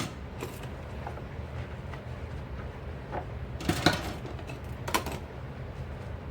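Dishes and utensils knocking and clinking while being washed by hand, a few separate clatters with the loudest cluster a little under four seconds in, over a steady low hum.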